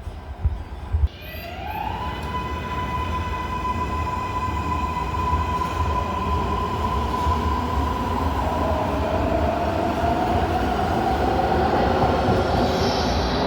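MARTA rapid-transit train pulling away: a few knocks, then the traction motors' whine rises in pitch about a second in and levels off into a steady high whine, over wheel-on-rail rumble that slowly grows louder as the train gathers speed.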